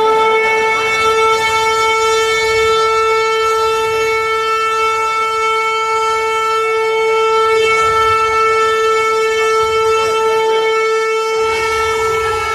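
A siren holding one long steady tone without a break.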